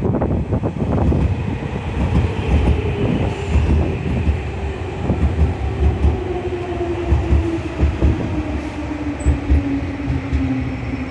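Electric commuter train on the Nankai Koya Line rolling through the station, its wheels clattering over rail joints, while the traction-motor whine slowly falls in pitch as the train slows.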